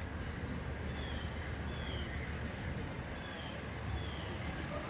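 Amtrak passenger train cars rolling past with a steady low rumble, with short high chirps repeating about once a second.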